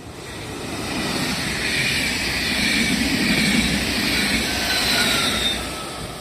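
A train passing by: the noise builds to a peak in the middle and fades toward the end. It carries a low rumble and a higher rushing sound, with whining tones that drop in pitch as it goes past.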